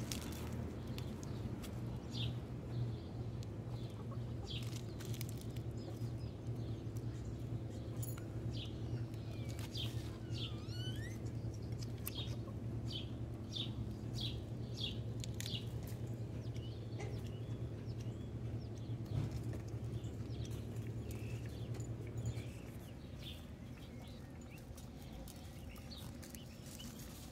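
Birds chirping: many short, high chirps scattered throughout, with a call that glides down and back up partway through. Under them runs a steady low hum that stops shortly before the end.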